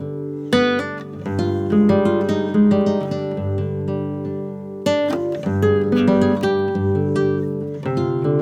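Acoustic guitar music: strummed chords and picked notes, with sharp strums about half a second in and again near five seconds.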